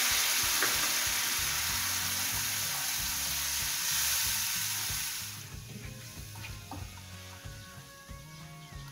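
Onion-tomato paste sizzling in hot oil with turmeric and chili powder in a nonstick frying pan, stirred with a spatula. The sizzle fades sharply about five seconds in, leaving soft stirring.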